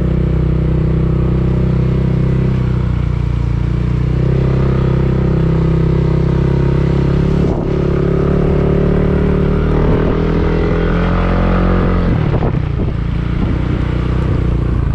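Motorcycle engine running under way with road and wind noise, its pitch climbing gradually through the middle as it speeds up, then dropping off near the end.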